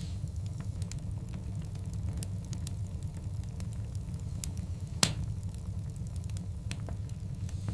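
Wood fire of large burning logs crackling over a steady low rumble, with scattered sharp snaps and one louder pop about five seconds in.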